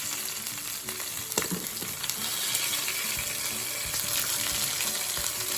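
Food sizzling in hot oil and butter in frying pans, a steady crackling hiss. There is a light knock about a second and a half in.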